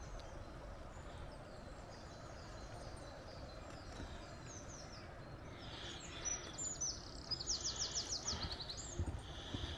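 Songbirds singing over a steady background hiss. A quick trill of short descending notes comes near the end.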